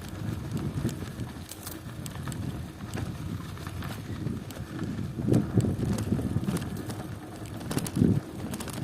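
Riding a bicycle over a rough country road: wind buffets the microphone in gusts, with scattered clicks and rattles from the bike.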